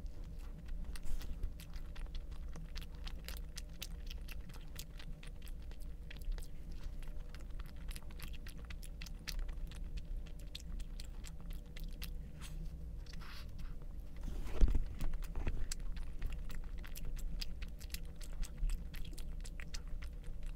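A person chewing and biting food close to the microphone, with many small mouth clicks and some crunching, over a steady low hum. A louder low thump comes about two-thirds of the way through.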